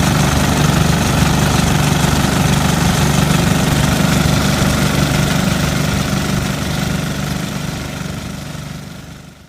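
Small garden tractor engine running steadily with a rapid, even pulse, fading away over the last few seconds.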